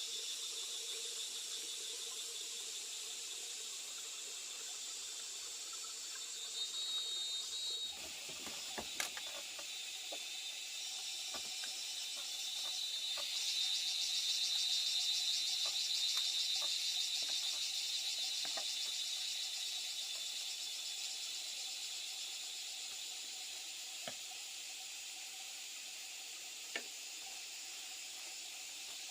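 Steady high-pitched hiss with a fast pulsing buzz that swells in the middle and fades again, broken by a few faint clicks and knocks.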